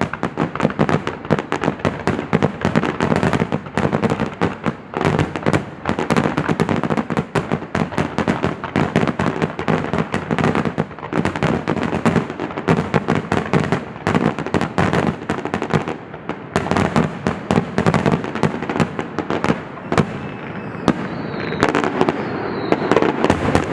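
Aerial fireworks going off in a rapid, nearly continuous barrage of bangs, many shells bursting close together.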